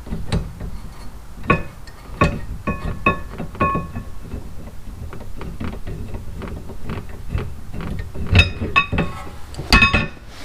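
Metal tools and parts clinking and knocking at irregular intervals, some strikes giving short ringing metallic notes. The loudest cluster of knocks comes near the end.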